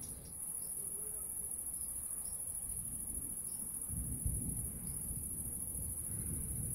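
Crickets chirring in a steady, high-pitched drone. From about four seconds in, an irregular low rumble joins in underneath.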